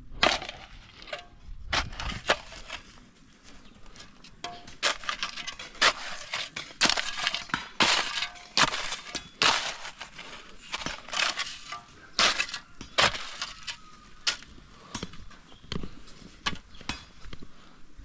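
Stones and gravel crunching and scraping in sharp, irregular strikes, about one a second.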